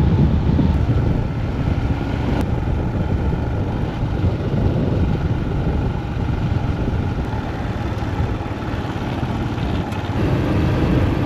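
Steady riding noise from a Royal Enfield Himalayan motorcycle at speed on a loose gravel road: a continuous low rumble of wind and engine, with no breaks or sharp events.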